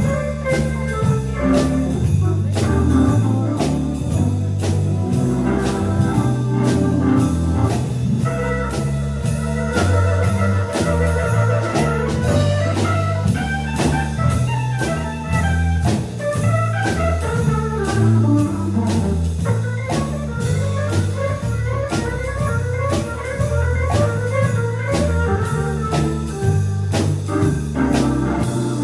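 Live jazz combo playing an instrumental: a bass line stepping from note to note, a drum kit keeping a steady beat on the cymbals, and an organ-like keyboard playing quick melodic runs over them.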